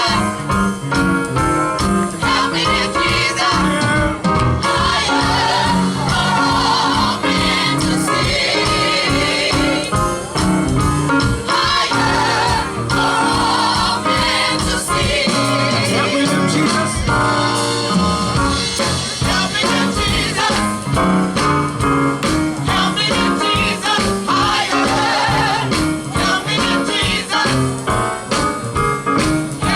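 Gospel vocal group singing with instrumental accompaniment and a steady beat.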